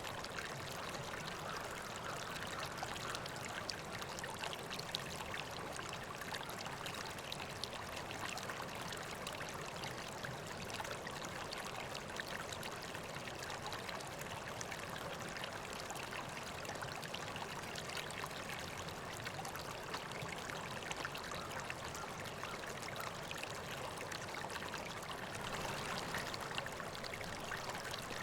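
River water flowing and splashing steadily, a continuous babbling rush without pause.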